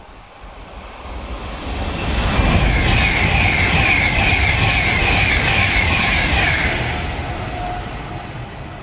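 Passenger train passing at speed. It builds from about a second in, is loudest through the middle with a run of short falling tones repeating about every two-thirds of a second, then fades away.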